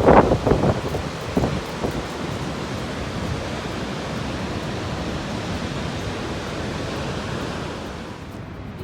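Steady rushing roar of Cumberland Falls in flood, with wind gusting on the microphone in the first couple of seconds; the sound drops off shortly before the end.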